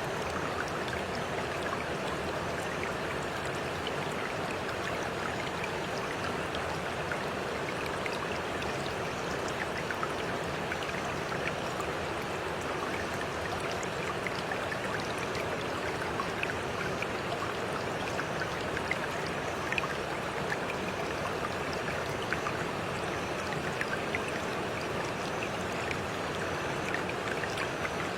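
Steady rush of running water from a stream, with many small drips and splashes scattered through it.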